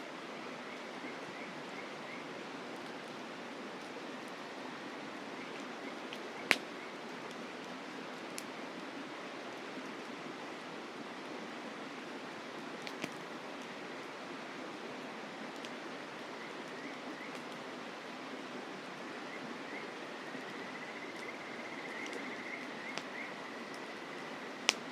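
Campfire wood crackling, with two sharp loud pops, one about six seconds in and one near the end, and a few faint ticks, over the steady rush of a mountain river. Insects trill faintly and steadily, most clearly over the last few seconds.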